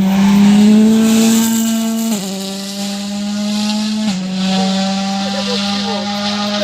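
Rally car engine under hard acceleration, climbing in pitch and dropping sharply at two quick upshifts about two seconds apart.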